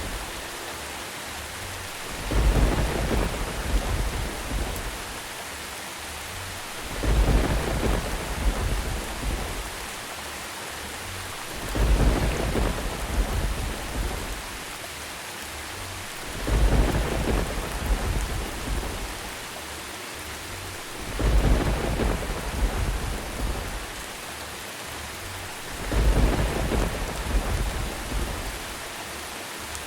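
Steady rain hissing, with rolls of thunder rumbling over it. Six rumbles come at even intervals of about four and a half seconds, each swelling up and fading.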